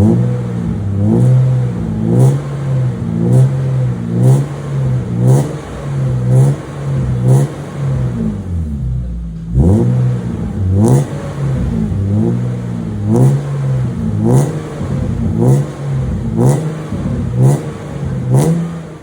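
BMW M52 inline-six engine revved through a full aftermarket exhaust (stainless header, resonator and dual muffler), blipped about once a second so the exhaust note rises and falls with each blip, with a brief lull about halfway through.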